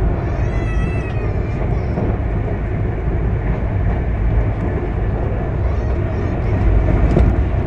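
Express passenger train running at high speed, heard from inside the coach: a loud, steady rumble of wheels on rail. A brief high squeal falls in pitch about half a second in, and a fainter short one comes near six seconds.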